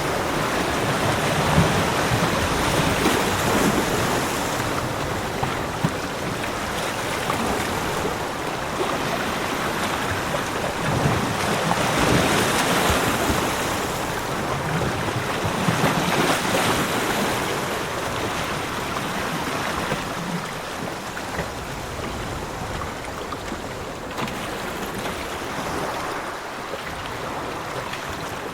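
Sea waves washing onto a beach, the surf rising and falling in slow swells every few seconds.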